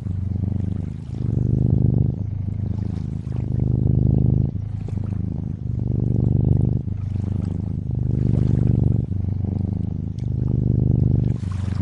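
Domestic cat purring steadily, swelling and easing with each breath about once every two seconds, over a soft wash of lapping water.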